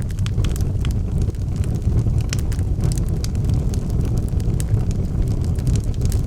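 Wood fire burning in a fireplace: a steady low rumble of flames, with irregular sharp crackles and pops from the burning logs, several a second.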